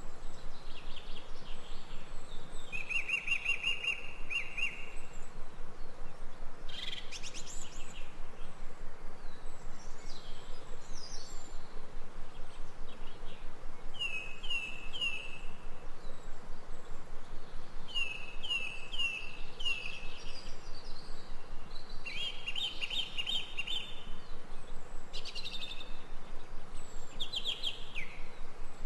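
Forest birds calling over a steady background hiss: a short trill a few seconds in, then several runs of three or four quick down-slurred whistled notes, with other brief chirps in between.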